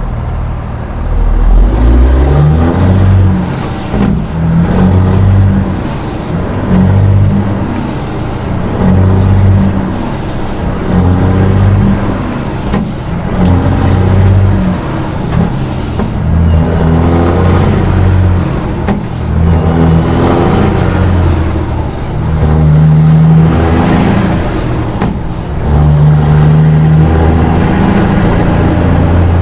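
Peterbilt 379 semi truck pulling away from a stop with a loaded trailer and shifting up through the gears. The diesel engine's revs climb and drop back at each shift, every two seconds or so at first and more slowly later, with a high turbo whistle rising and falling along with them.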